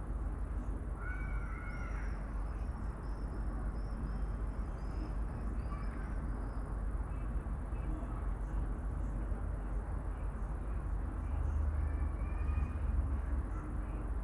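Birds calling: a short pitched call about a second in, then a run of short high chirps for several seconds, with fainter calls later, over a steady low rumble.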